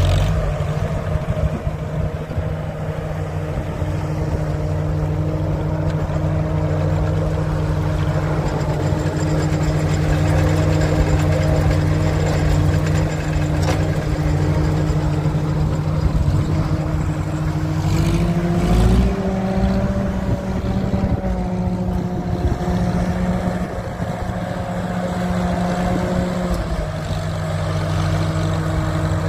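1948 Farmall H tractor's four-cylinder gasoline engine running steadily. It picks up speed a little past halfway, with a short knock or two as it does, then settles back down near the end.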